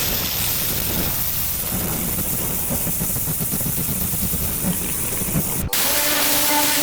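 Pressure washer jet spraying water onto patio paving: a steady hiss of spray. Near the end it cuts abruptly to another stretch of spraying with a steady machine hum under it.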